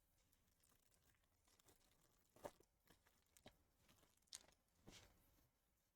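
Near silence broken by a few faint, short crackles, about four over the last few seconds: trading cards and foil pack wrappers being handled.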